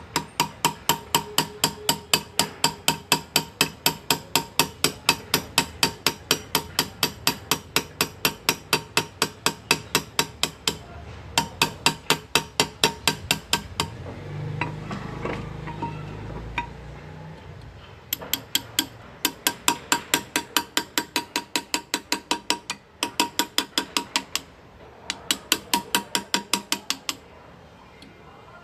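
Hand engraving with hammer and chisel: a small engraving hammer taps a graver into metal about four times a second, each tap with a metallic ring. The taps come in runs of several seconds with short pauses, and around the middle a break holds a low rubbing or handling noise.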